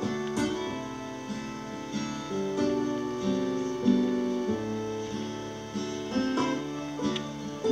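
Acoustic guitar playing an instrumental passage, strummed and picked chords changing every half second or so.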